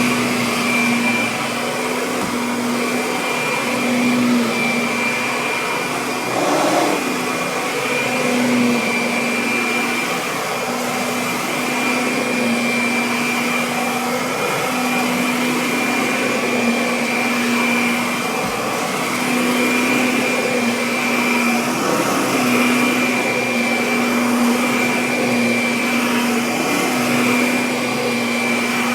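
Kirby Avalir upright vacuum cleaner running continuously, a steady motor hum with a thin high whine. The hum swells and eases slightly every couple of seconds.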